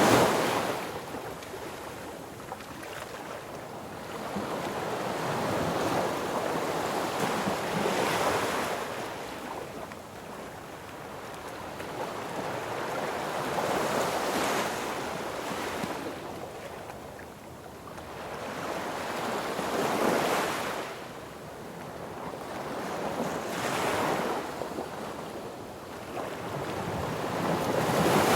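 Sea waves breaking on a beach: surges of surf that swell and fade again every few seconds.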